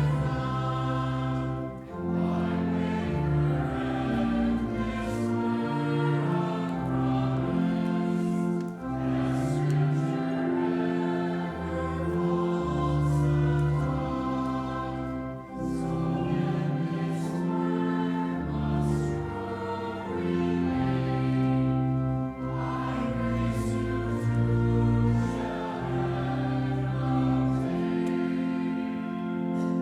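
Church congregation singing a closing hymn with pipe organ accompaniment: slow held chords that change about once a second under many voices.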